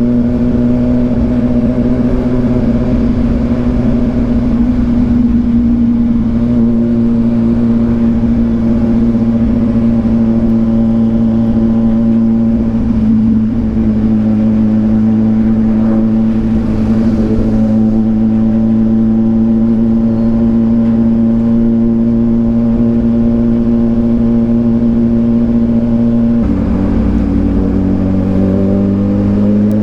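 2022 Kawasaki Ninja 1000SX inline-four with an AR aftermarket exhaust running under a steady throttle at cruising speed, its pitch easing down slightly. About 26 seconds in the pitch drops sharply, as at a gear upshift, then rises again as the bike pulls.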